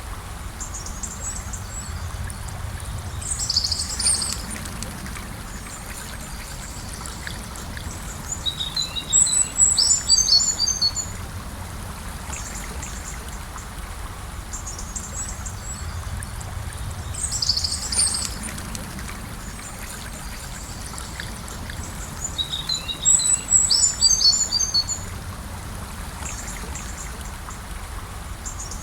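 River water flowing steadily, with birds singing over it. A short call comes about four seconds in and again just past halfway, and a quick run of chirps comes around ten seconds in and again near the end.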